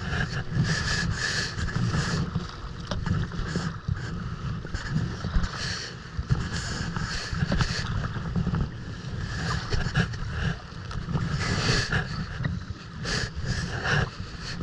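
Wind buffeting the microphone in a steady rumble on open water, with irregular splashes of water against the kayak.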